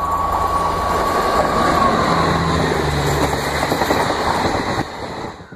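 Electric-hauled LHB express train passing at high speed, with a dense rushing noise and a rapid clatter of wheels over the rail joints. A steady high whine runs through the first half and falls slightly before fading. The sound cuts off abruptly at the end.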